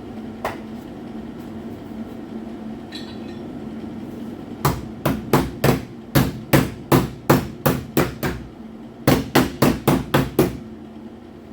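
Hammer striking sheet metal in two quick runs of blows, about three to four a second: roughly a dozen, a short pause, then about seven more, each with a bright metallic ring.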